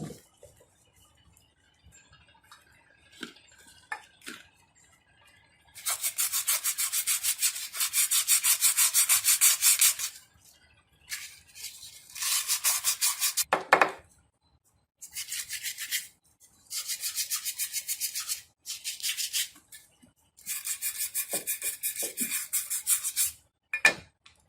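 Hand abrasive work on a starter part: quick back-and-forth rubbing strokes, like sanding or scrubbing, in several runs of one to four seconds with short pauses between them. A few light knocks fall between the runs.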